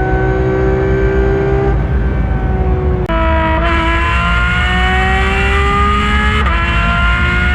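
Porsche 991.2 GT3 RS's naturally aspirated flat-six, breathing through headers and a Valvetronic Designs exhaust, pulling under acceleration. Its pitch climbs steadily, then drops sharply, like gear changes, about three seconds in and again near the end.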